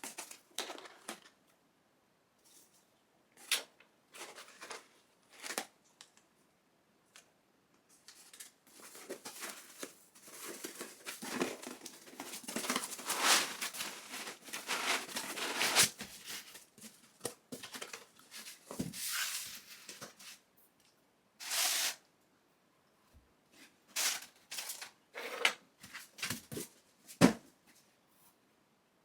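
Packaging being handled by hand: rustling, crinkling and tearing of paper or plastic with scattered clicks and knocks, busiest in a long stretch of rustling in the middle.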